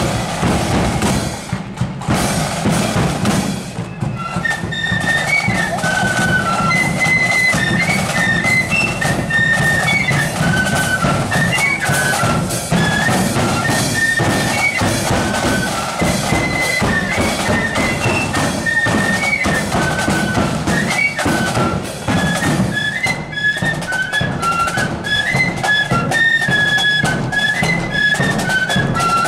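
Marching flute band playing a tune: flutes carry a quick high melody over snare and bass drums, with the flutes coming in about four seconds in after drums alone.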